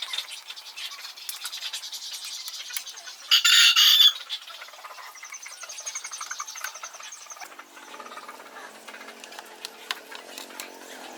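A bird squawks once, loudly and briefly, about three seconds in, over light clicking and tapping. A lower, drawn-out bird call starts near the end.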